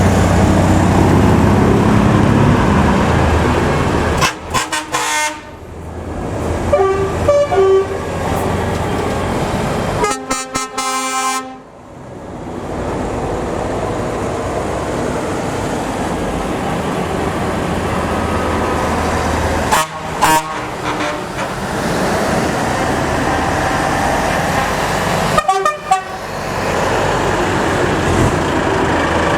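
Heavy trucks driving past one after another, their engines and tyres making a steady loud noise, with truck horns sounding several times, one longer blast about ten seconds in.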